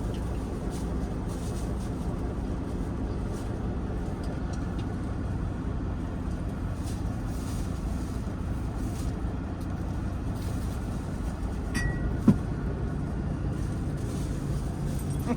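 A semi truck's diesel engine idling steadily, heard from inside the cab, with one sharp click about twelve seconds in.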